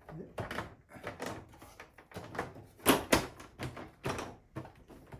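An irregular series of sharp clicks and knocks, the two loudest close together about three seconds in.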